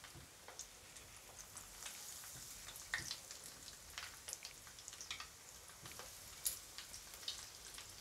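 Breadcrumb-coated prawn-and-potato chops (chingudi chop) frying in hot oil: a faint, steady sizzle with irregular crackling pops.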